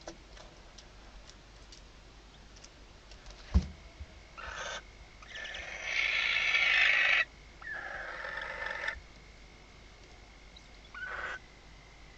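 Barn owls in a nest box giving harsh hissing screeches in several bursts, the longest and loudest lasting about two seconds, after a sharp thump about three and a half seconds in.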